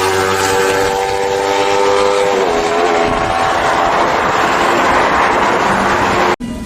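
Sportbike inline-four engine held at high, steady revs, its pitch dipping slightly about two and a half seconds in, then giving way to a rush of wind and road noise. It cuts off suddenly near the end.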